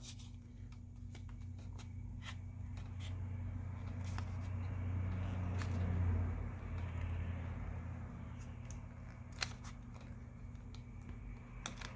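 Thin plastic card scraping and prying under a glued-in phone battery, a soft rubbing that swells for a few seconds in the middle, with a few small clicks later on, over a low steady hum.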